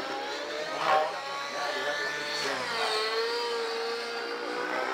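RC helicopter in 3D aerobatic flight: its motor and rotor whine, the pitch dropping about halfway through, holding low, then climbing again near the end as the pilot works throttle and collective.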